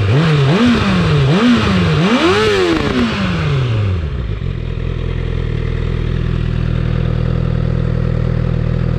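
2019 Honda CBR1000RR Fireblade inline-four on its stock exhaust, blipped four times, each rev rising and falling with the last one the highest, then settling back to a steady idle about four seconds in.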